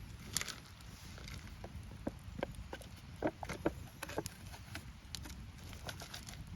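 Scattered, irregular clicks and taps over a low steady rumble, a little busier around the middle.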